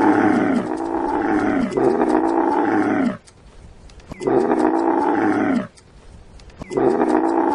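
Camel calling: a series of loud, drawn-out calls about a second or more each, each sliding down in pitch at its end, with short pauses between groups of calls.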